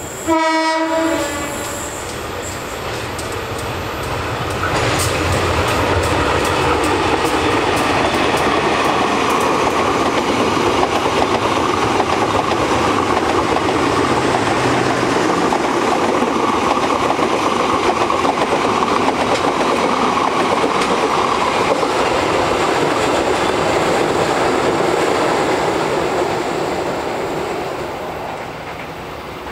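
A diesel locomotive sounds its horn once, about a second long, right at the start, then its engine and a passenger train pass close by, the wheels clacking over the rail joints. The noise stays loud and steady and fades near the end as the last coaches go away.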